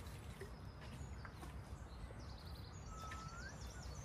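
A low, steady outdoor rumble. In the second half a songbird sings a quick run of high chirps, with one short rising whistle.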